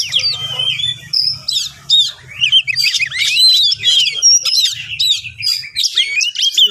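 Oriental magpie-robin (kacer) singing a fast, unbroken run of varied high whistles, chirps and rising and falling notes: the agitated territorial 'fighting' song of a bird in full voice.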